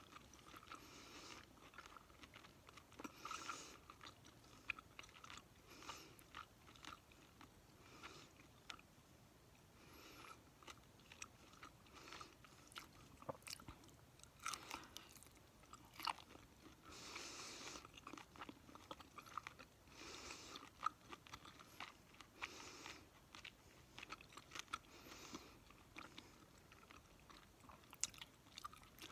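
A person chewing food right up against the microphone: soft, quiet chewing with many short sharp clicks and crackles, a few louder crunches now and then.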